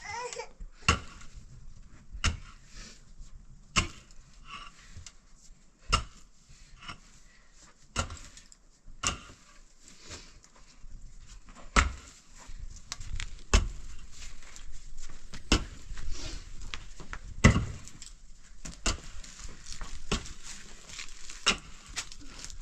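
A series of sharp, single knocks, one about every one and a half to two seconds at an uneven pace, like repeated strikes on wood.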